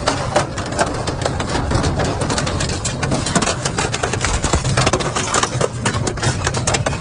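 Industrial double-shaft metal shredder running under load: a steady low motor hum under a dense, irregular clatter of sharp cracks as metal is torn and crushed between the cutters.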